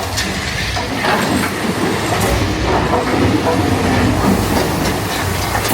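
Big Thunder Mountain Railroad mine-train roller coaster running along its track: a steady, loud rattle and clatter of wheels on rails.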